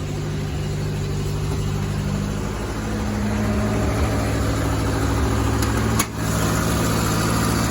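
1985 Toyota Tercel's 3A-C carburetted four-cylinder engine idling steadily while warming up after a cold start, its idle rising slightly about three seconds in. A single sharp click about six seconds in.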